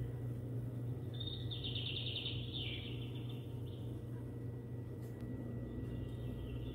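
Bird chirping in short trilled phrases, about a second in and again near the end, over a steady low hum.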